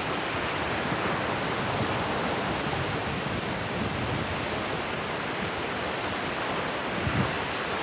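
Ocean waves washing on a beach as a steady, unbroken hiss, with a brief low thump near the end.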